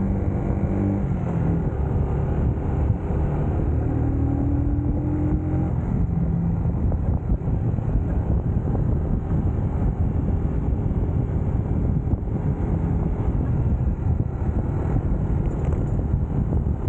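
UM Scrambler X motorcycle engine running under way, its pitch shifting over the first few seconds, then giving way to a steady rush of road and wind noise from about six seconds in.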